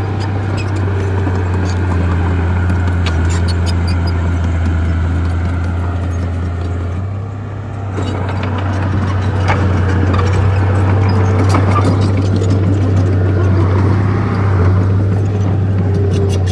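Bulldozer diesel engine running with a steady low drone that dips briefly about halfway through, with scattered clicks and clanks over it.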